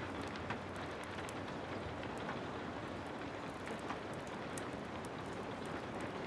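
Heavy rain falling steadily, with scattered sharp crackles of a wood fire.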